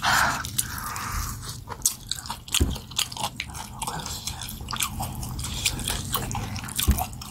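A person biting and chewing meat off a cooked goat head close to the microphone: many irregular short, sharp wet clicks and smacks.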